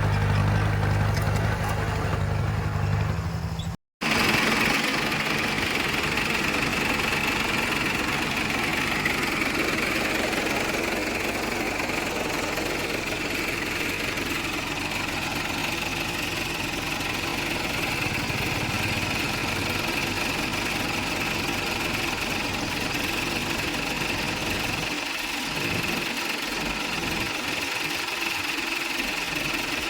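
Heavy diesel earthmoving machinery running: a low engine drone, then after a sudden cut about four seconds in, a steady, higher-pitched mechanical clatter.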